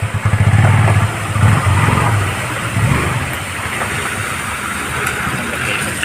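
Motor vehicle engine pulsing at idle, then revving up louder for a couple of seconds before settling to a steady run, with a steady hiss above it.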